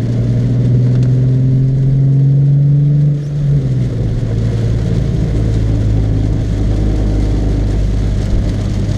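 Car engine running as a steady low hum, with a note that climbs slowly for about three seconds and then drops suddenly.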